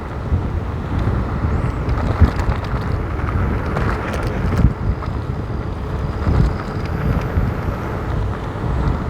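Wind rushing over the phone's microphone and tyre noise from an electric kick scooter riding on a wet road, with a few short thumps.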